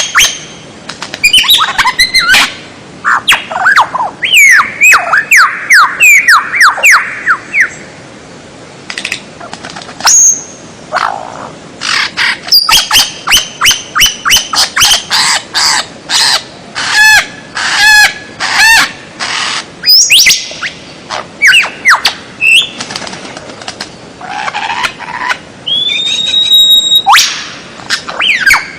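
Songbird singing a loud, fast, varied song: runs of quick down-slurred whistles, repeated buzzy notes, sharp chips, and a long rising whistle near the end. It is played as a tutoring song for caged songbirds.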